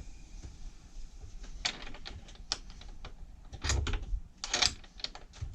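Irregular clicks and knocks of small hardware and tools being handled, a few louder knocks with a dull thud about two-thirds of the way in.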